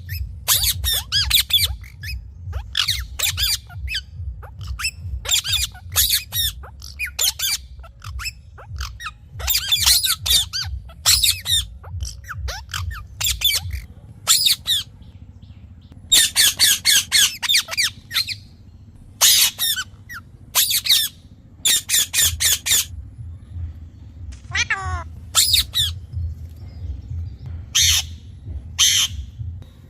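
Green parrots squawking in quick runs of harsh, high screeches with short pauses between the runs, over a steady low hum.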